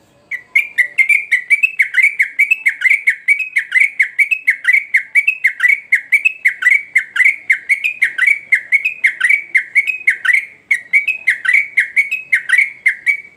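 Yellow-vented bulbul (trucukan) singing continuously: a long, unbroken run of quick, chattering notes, about four a second, starting about half a second in.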